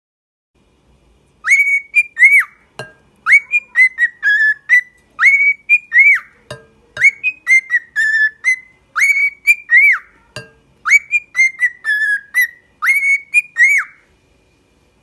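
A pet bird whistling a melodic tune: clear arching notes, the same phrase repeated about four times with a short click between repeats.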